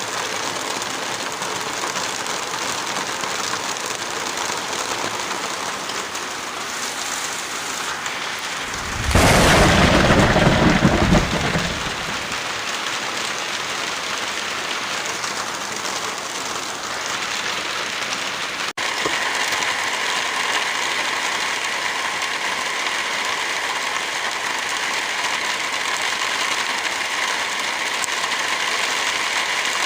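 Heavy rain falling steadily. About nine seconds in comes a louder low rumble lasting about three seconds. Near the middle the sound cuts out for an instant and comes back with a slightly brighter rain texture, as at a splice between recordings.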